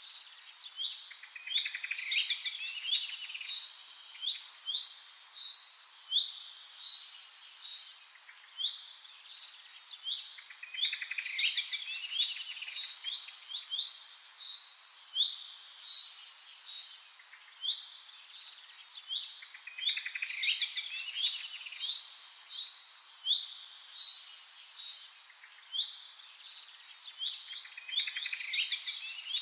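Songbirds chirping and trilling in quick phrases that come back every few seconds.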